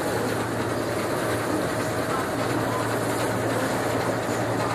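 Boat engine running steadily: a constant low hum under a dense, even wash of noise.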